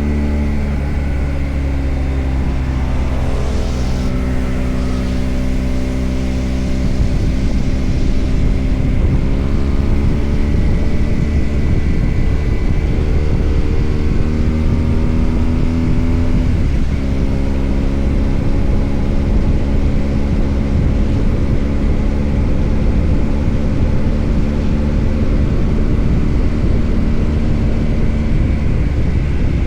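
BMW R1250GS Adventure's boxer-twin engine running under way, heard with wind and road rumble. Its note drops and climbs again a few times, and it gets a little louder about seven seconds in.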